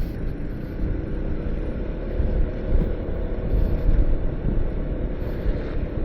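Motorcycle engine running while riding, with heavy wind and road rumble on the microphone.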